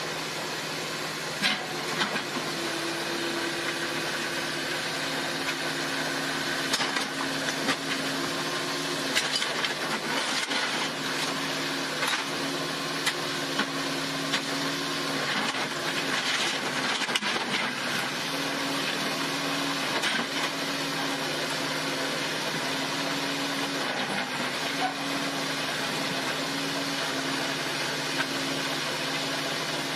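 A car's engine and road noise heard from inside the cabin through a dashcam microphone: a steady hum with a few scattered light knocks and clicks.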